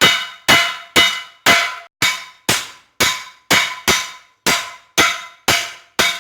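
Hammer blows on hot chainsaw-bar steel being forged into a knife blade, about two a second in an even rhythm, each blow ringing metallically.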